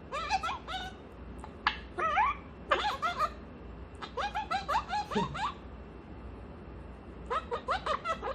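Young African grey parrot chattering: about five short bursts of babbling, squeaky notes that slide up and down in pitch, with pauses between them.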